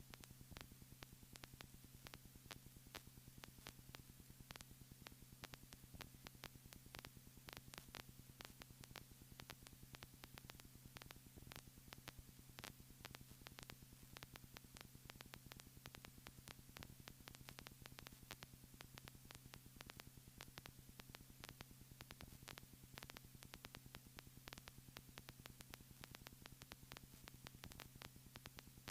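Near silence: a faint steady electrical hum under a continuous crackle of fine static clicks.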